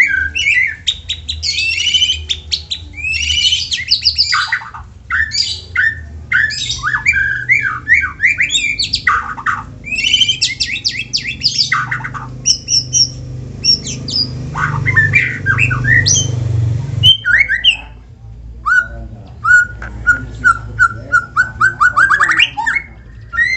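White-rumped shama (murai batu) singing: varied rapid phrases of whistles, chattering and sharp sweeping notes, with a run of quick repeated notes near the end. A low hum underneath swells and then cuts off abruptly about two-thirds of the way through.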